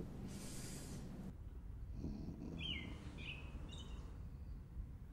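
Faint bird chirps, a few short falling chirps about halfway through, over low steady background noise.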